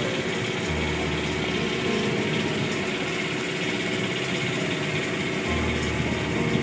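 Small sailing cruiser's engine running steadily.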